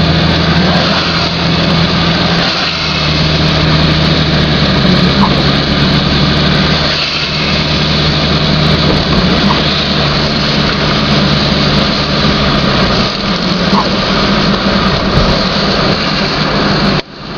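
Car running, heard from inside the cabin: a steady low engine hum under a constant rushing noise, with a brief dropout near the end.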